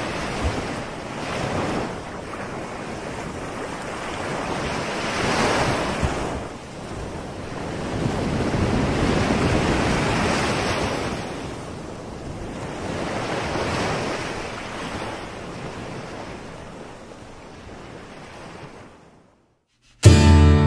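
Ocean surf: waves washing in and out, swelling and falling back about every four seconds, then fading away. Acoustic guitar music starts suddenly at the very end.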